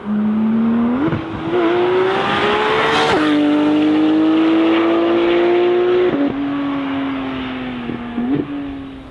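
A sports car's engine accelerating hard and loud, its pitch climbing and then dropping sharply at gear changes about three and six seconds in, then easing off with a short rev blip near the end.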